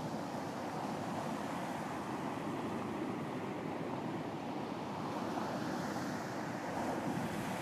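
Ocean surf washing onto a beach: a steady rush of water, with a wave swelling to a brighter hiss near the end.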